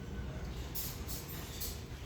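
Steady low rumble of wind on the microphone with road noise, and a few short hisses in the middle.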